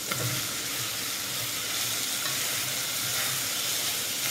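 Sliced mushrooms frying in hot oil with garlic, onion and ginger, with a steady sizzle as they are stirred in the pan with a silicone spatula.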